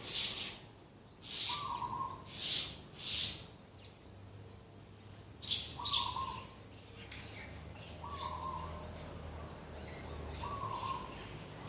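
Doves cooing in short phrases repeated every two to three seconds. Other birds give louder, harsher calls, mostly in the first half.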